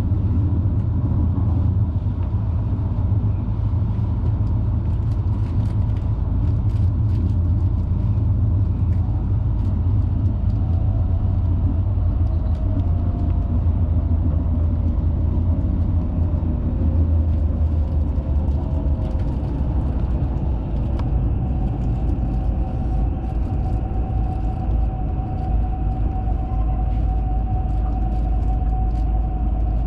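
Hayabusa Shinkansen train running at speed, heard from inside the passenger cabin: a steady low rumble, with a faint whine that shifts in pitch midway and then holds one steady note.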